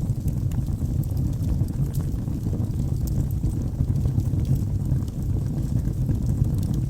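Wood fire burning in a fireplace: a steady low rumble of flames with scattered light crackles from the logs.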